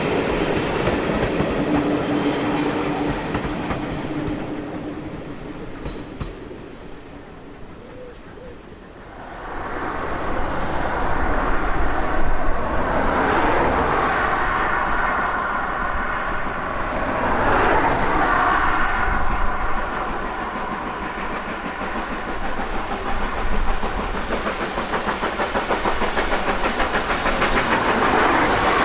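A train running along the line. Its sound dies away over the first several seconds, then rises abruptly about nine seconds in and stays loud to the end.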